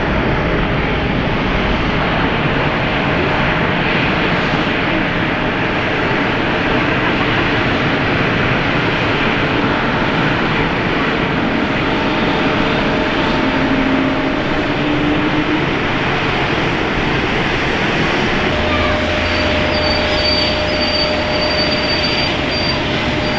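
Jet airliner engines running, a loud, steady rush with faint whining tones in it; a thin high whine comes in near the end.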